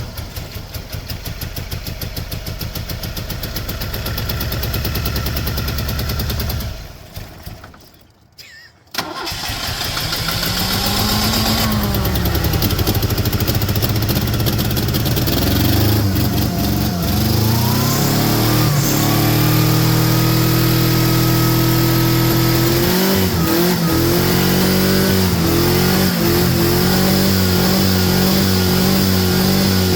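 Fox Body Mustang engine, running with dish soap in place of its oil and coolant, dies away about seven seconds in, then restarts and revs up. From about two-thirds of the way through it runs with a loud, uneven pulsing note.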